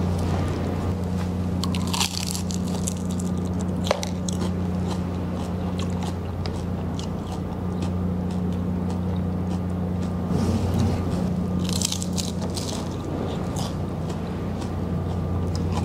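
Biting and chewing crispy pata, deep-fried pork leg, up close, with crunchy bites about two seconds in and again around twelve seconds, over a steady low hum.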